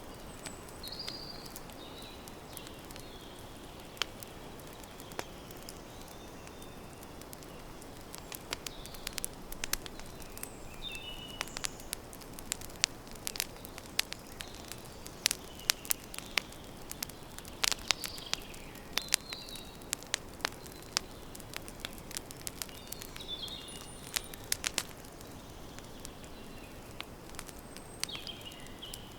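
Wood campfire crackling, with many sharp pops that come thickest through the middle, over a steady soft hiss. Birds chirp briefly now and then in the background.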